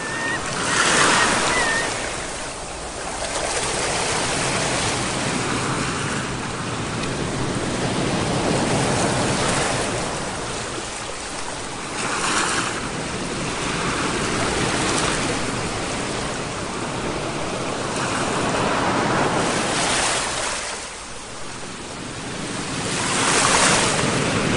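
Sea waves breaking and washing ashore, a continuous surf hiss that swells and falls every few seconds.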